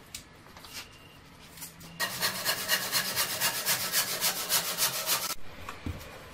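Quick, even scraping strokes from a hand tool working material, about six a second, starting about two seconds in and stopping suddenly some three seconds later.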